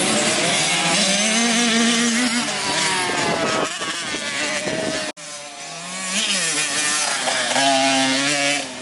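Motocross bike engines running and revving, the pitch rising and falling as the throttle opens and closes and the gears change. The sound cuts off abruptly about five seconds in, then the engines resume.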